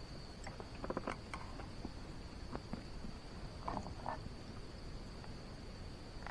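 Insects singing one steady high-pitched note, with a few soft clicks and knocks about a second in and again near the middle.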